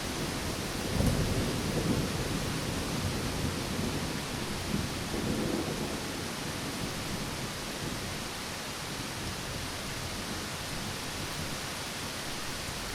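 Steady heavy rain hissing, with low rolls of distant thunder rumbling about a second in and again around five seconds in.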